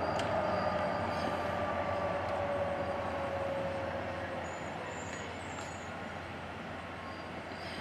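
Heavy truck driving past and away, a whine slowly falling in pitch as its sound gradually fades.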